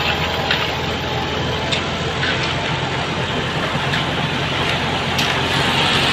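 Heavy machinery engine running steadily at a concrete pour, with a few short light knocks over it.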